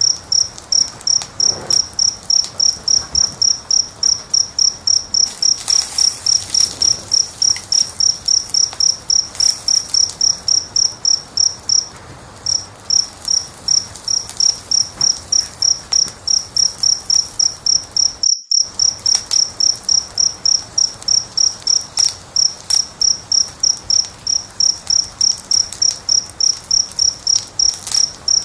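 A cricket chirping in a steady, even rhythm of about three high-pitched chirps a second, with one short pause partway through. Faint crackling of a wood fire sits underneath, and all sound cuts out for a split second later on.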